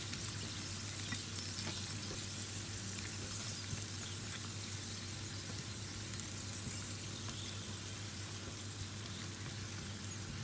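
Sliced potatoes frying in oil in a nonstick pan: a steady sizzle, with a few light taps and scrapes of the spatula as the slices are turned over.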